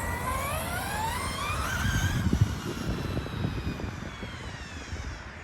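An engine's whine climbing steadily in pitch for about two seconds, then sinking gently as it fades near the end, over a low rumble.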